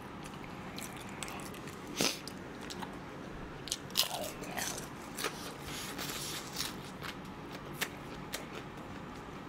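Close-up bites and chewing of crispy fried chicken: sharp crunches about two seconds in and again around four seconds, then smaller irregular crunches as it is chewed.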